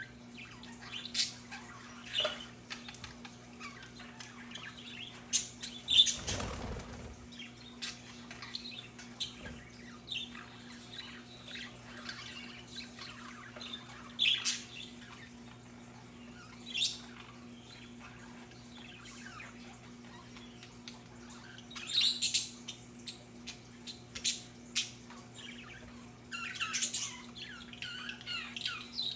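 Budgerigars chirping and chattering in short, scattered high calls, busier near the end, with one brief loud rustle about six seconds in, over a steady low hum.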